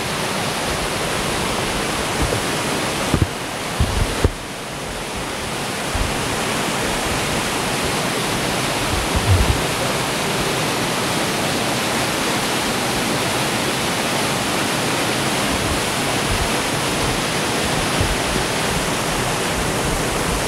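Small waterfall, Kani-daru, pouring steadily into its pool: an even, loud rush of falling water, with a few brief low bumps about three to four seconds in and again about nine seconds in.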